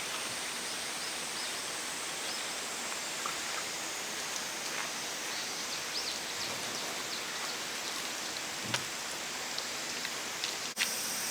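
Steady outdoor rushing noise with scattered faint ticks, and a brief break near the end.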